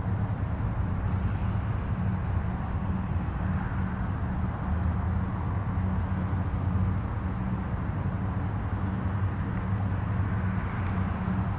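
Distant highway traffic: a steady, continuous rumble of many vehicles and tyres blended into one low wash of noise, with no single car standing out.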